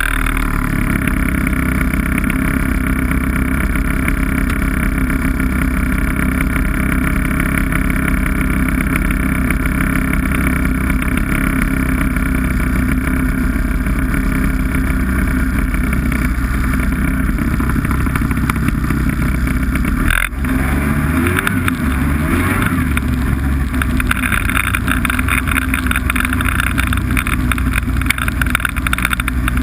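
Snowmobile engine running steadily under way. The sound drops out for a moment about two-thirds of the way through, then carries on with a shifting pitch.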